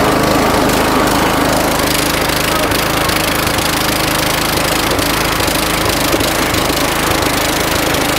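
Lawn tractor's small engine running steadily.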